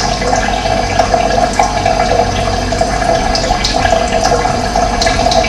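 Running water splashing and gurgling steadily, with a few short high bird chirps over it in the second half.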